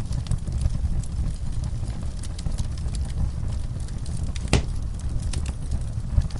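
Fireplace crackling with scattered pops, one sharper pop about four and a half seconds in, over a steady low rumble, mixed with the sounds of horses in a stall.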